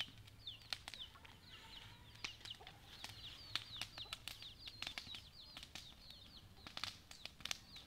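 Birds chirping over and over in short, high, downward notes, faint, with scattered sharp crackles and clicks.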